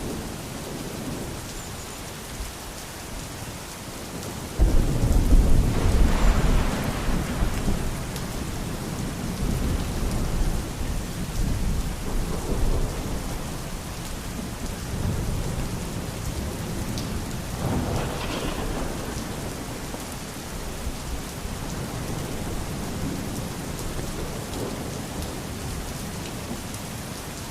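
Steady rain falling in a thunderstorm. About four and a half seconds in, thunder breaks suddenly into a deep rumble that rolls on for several seconds, and a second, weaker roll of thunder follows near the middle.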